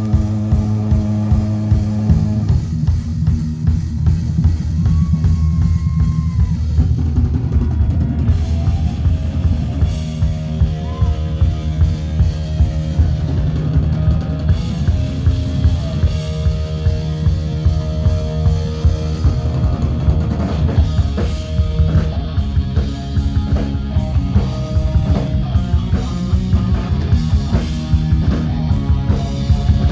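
Rock music led by a drum kit playing a steady beat, with bass drum and snare strikes over sustained low instrumental notes.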